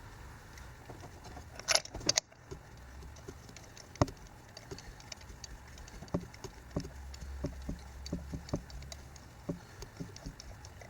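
Small metal clicks and a few sharper knocks from a spark plug socket and wrench as a new spark plug is put into the engine's plug well and turned in.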